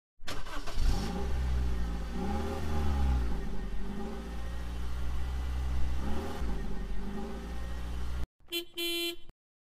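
Car engine sound effect, revving up and down in pitch over a steady low drone, cut off suddenly about eight seconds in, then a short car-horn honk.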